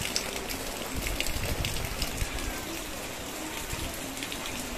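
Steady rain falling: a continuous hiss with many scattered drop splashes.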